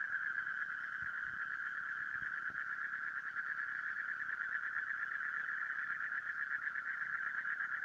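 A dense chorus of small birds chirping, merging into a steady, unbroken chatter at one high pitch.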